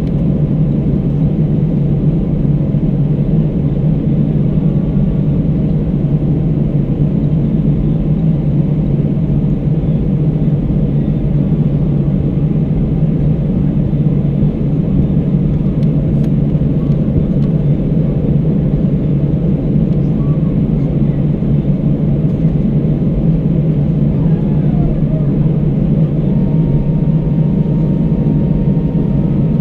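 Steady engine and airflow drone inside the cabin of an Airbus A319 airliner, with no change in pitch or loudness; a faint thin steady tone joins near the end.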